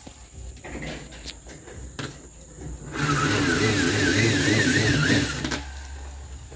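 A power drill runs for about two and a half seconds, starting suddenly about three seconds in, its whine wavering in pitch as it bores a hole through the fridge body. Light knocks come before it.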